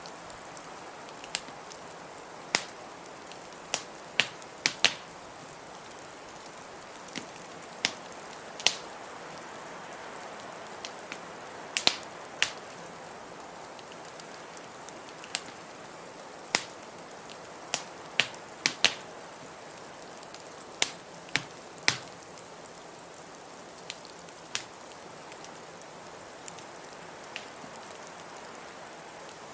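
Wood fire in a fireplace crackling, with sharp irregular pops a half second to a couple of seconds apart, over a steady rush of blizzard wind.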